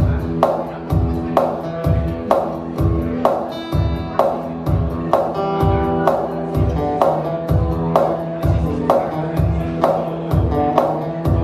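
Acoustic guitar playing an instrumental intro over a steady backing beat, a low drum thump about twice a second.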